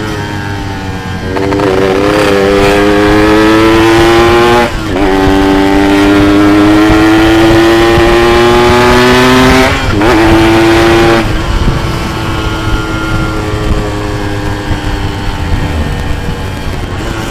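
Yamaha RX-King's two-stroke single-cylinder engine pulling hard under throttle, its pitch climbing, dropping at a gear change about five seconds in and climbing again. About eleven seconds in the throttle closes and the engine note quietens and slowly falls as the bike runs on.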